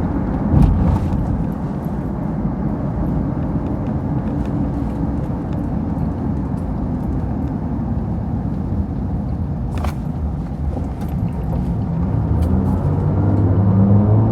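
Steady road and tyre noise heard inside a car's cabin while driving at highway speed, with a short thump about half a second in. Near the end a steady low hum builds up.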